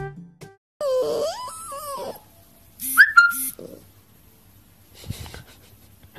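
Husky puppy howling, a wavering rising and falling cry lasting about a second and a half, followed about a second later by two short, sharp squeals.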